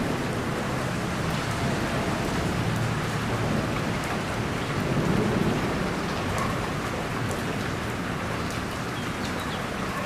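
Steady heavy rain falling, with thunder rumbling low and swelling slightly about halfway through.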